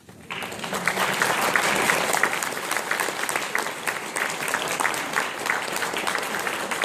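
Audience applauding, a dense crowd of hand claps that swells up within the first half second and holds steady.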